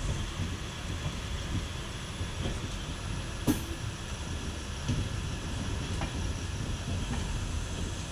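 Passenger train running: a steady low rumble, with one sharp knock about three and a half seconds in and a few fainter clicks after it.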